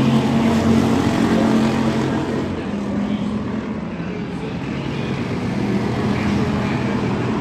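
Dirt-track stock car V8 engines running at speed. The sound dips about three seconds in and then builds again.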